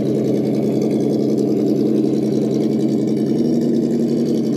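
A steady motor hum that runs evenly without changing pitch or level.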